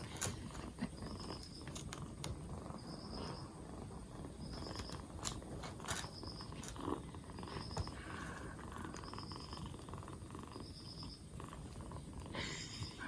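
A two-month-old black kitten purring steadily, with a few light clicks and a faint high-pitched chirp repeating about once a second.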